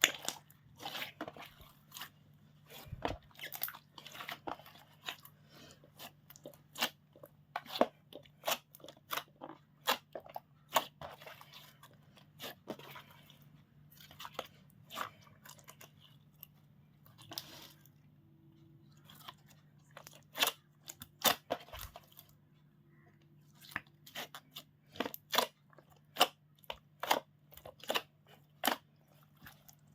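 Slime being squished and kneaded by hand, giving irregular sharp pops and crackling clicks, at times several a second, with brief quieter pauses.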